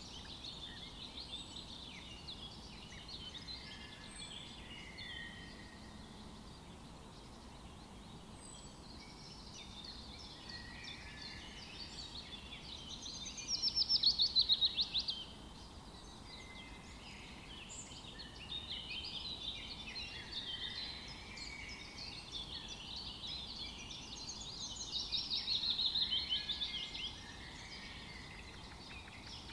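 Forest birdsong: several birds chirping and calling throughout, with two louder rapid trilling songs, one about halfway through and another near the end.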